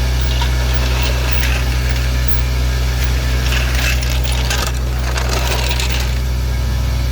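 Metal clinking and rattling, a few sharp strokes clustered around the middle, over a steady low hum.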